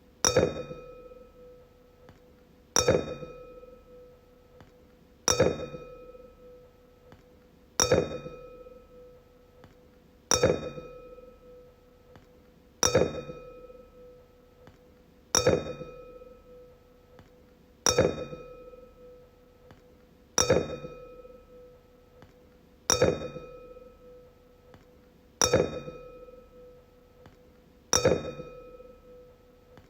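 Wine glass struck over and over, about once every two and a half seconds, each strike giving a clear ring that fades within about a second.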